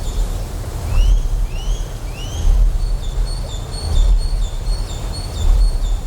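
Deep generator hum that swells and fades about every second and a half, over a steady wash of noise. Above it, short high chirps repeat in a steady pattern, and about a second in three rising-then-falling chirps sound one after another.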